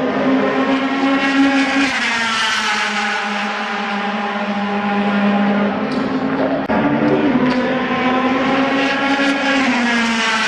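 Mercedes-AMG C-Coupé DTM race cars' naturally aspirated V8 engines running hard past the grandstand. The engine note falls in pitch after about two seconds, then rises again from about seven seconds as more cars come through.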